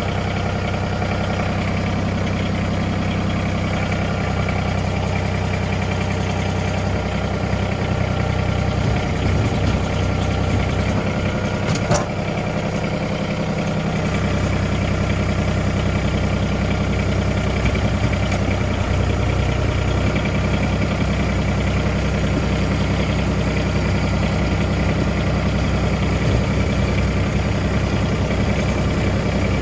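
Tractor engine running steadily at idle, with a shift in its note part way through and a single sharp click about twelve seconds in.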